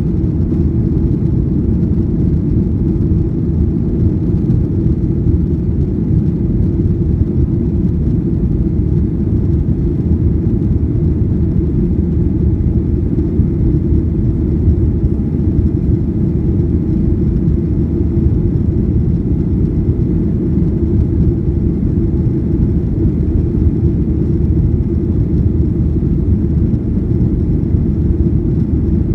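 Boeing 737-800 jet engines and airframe giving a loud, steady low rumble that neither rises nor falls.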